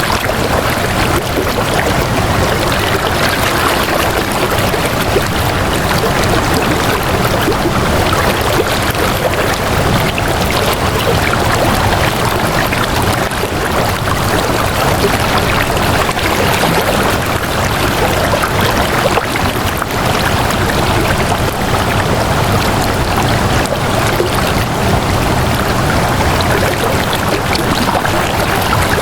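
Water flowing steadily, a continuous even rush with no breaks or changes.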